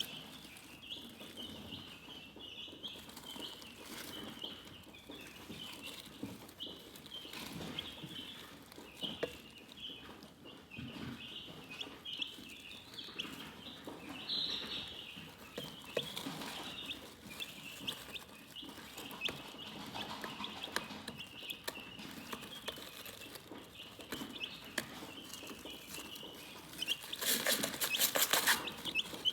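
Chickens chirping in a steady run of short, high calls, with a louder rustling burst near the end.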